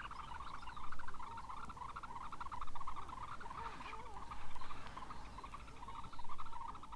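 Red-necked phalaropes calling: rapid chattering notes that swell into louder bursts about every two seconds.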